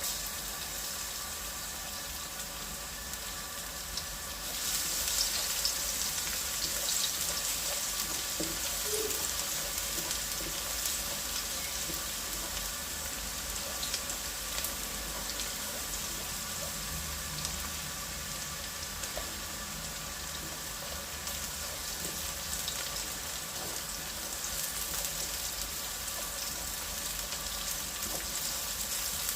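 Food frying in hot oil in a pan: a steady sizzle with fine crackling pops that turns louder about four and a half seconds in.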